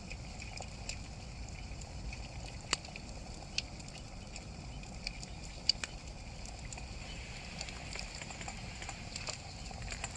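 Wood campfire crackling: irregular sharp pops and ticks, a few of them louder, over a steady low rumble.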